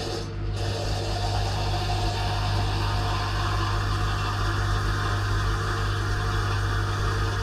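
Dishwasher's circulation pump running with a steady hum and a rushing hiss that swells about half a second in, heard from inside the tub.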